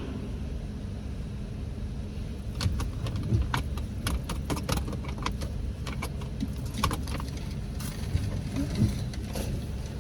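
Steady low rumble of a car idling, heard from inside the cabin. From a few seconds in, a run of sharp, irregular clicks and light rattles, like small items being handled.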